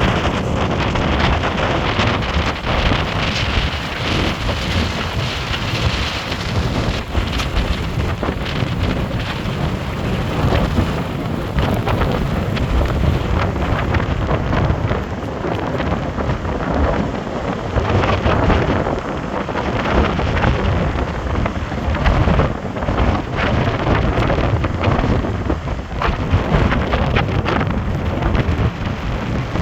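Storm wind gusting against the microphone, with rain: a loud, constant rush with low, uneven buffeting that swells and eases all through.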